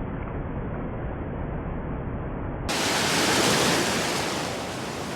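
Surf on a sandy beach: a muffled rush of water, then a wave breaking and washing in about three seconds in, swelling and then fading.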